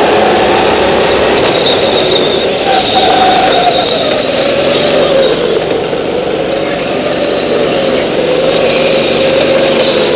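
Go-kart engine running hard on the track, its note falling and rising with throttle through the corners, with a faint high whine over it.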